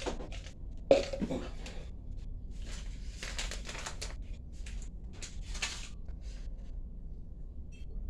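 Handling noises: a sharp knock about a second in, then several short bursts of rustling and scraping over a low steady hum.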